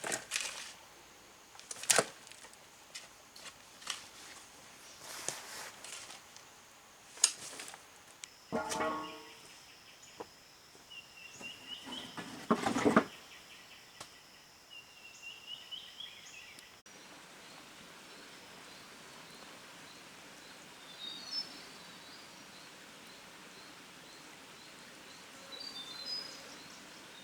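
Outdoor ambience: scattered sharp knocks and clicks, with a few brief bird-like chirps and a louder rushing burst about halfway through. After an abrupt change it settles into a steady hiss with faint, high bird chirps.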